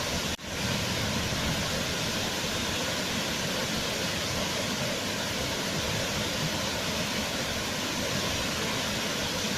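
Waterfall: water rushing and splashing in a steady, even roar, with a momentary break in the sound less than half a second in.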